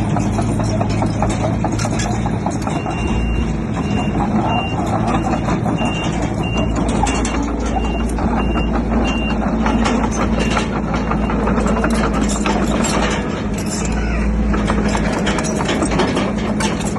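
Heavy diesel earthmoving machinery running steadily, with clanking throughout. A reversing alarm beeps about twice a second, starting about three seconds in and stopping near ten seconds.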